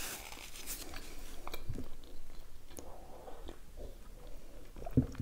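Close-miked chewing and soft mouth sounds with scattered small clicks, then a sip from a glass of coffee late on. A brief low thump comes near the end.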